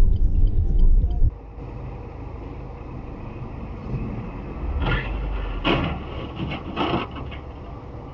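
Vehicle road noise as heard from a dashcam: a loud low rumble that cuts off abruptly about a second in, then steadier, quieter traffic noise with a few short rushes of noise around five to seven seconds in.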